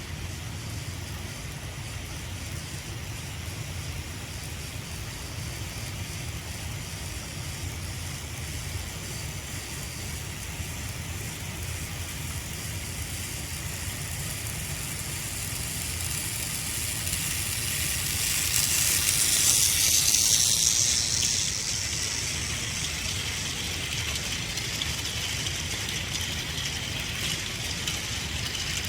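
Battery-powered Plarail Thomas toy train running on plastic track, its motor and wheels giving a steady whirring rattle. It grows louder for a few seconds about two-thirds of the way through, then eases off.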